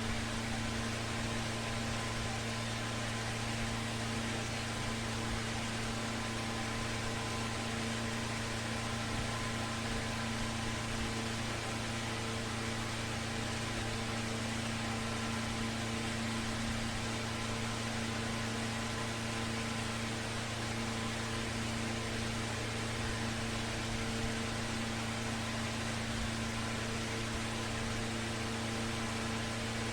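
Ceiling fan motor running with a steady electrical hum over a constant hiss.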